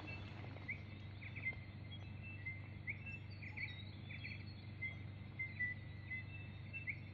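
Several wild birds chirping in morning birdsong, short calls one after another, over a steady low hum.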